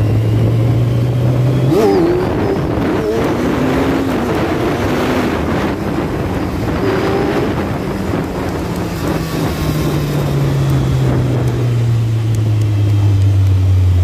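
Kawasaki Z1000's inline-four engine running under way, with steady wind and road noise. The engine note is strong at first, fades about two seconds in, then comes back strongly later on and slowly falls in pitch as the bike rolls off.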